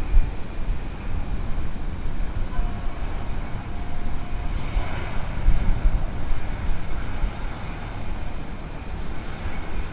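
Jet engine noise from a landing Airbus A321 airliner, a steady rush with gusty wind buffeting on the microphone.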